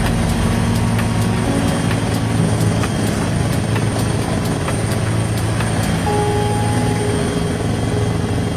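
Helicopter running steadily: a loud, constant engine drone with faint regular rotor beats.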